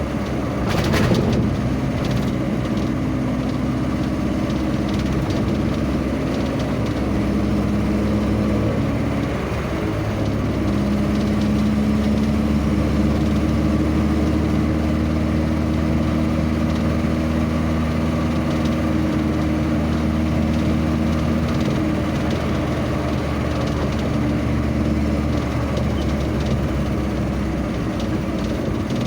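Vehicle engine running steadily on the road, its hum shifting in pitch about ten seconds in, over road and wind noise, with a brief knock about a second in.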